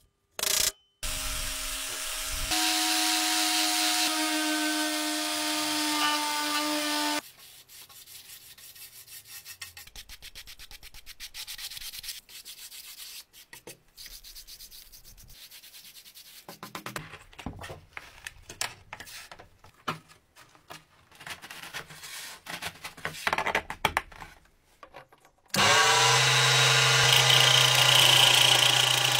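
Tool work on wood. A small power tool runs steadily for several seconds, then quieter rubbing and scraping with scattered knocks follows. A power tool starts up again near the end.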